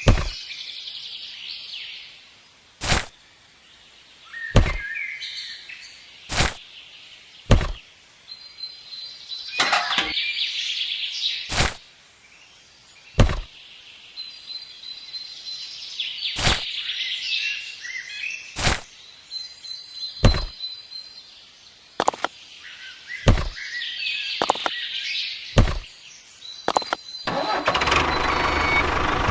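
Birds chirping, with about fifteen sharp clicks or knocks at irregular intervals. Near the end a louder steady noise starts.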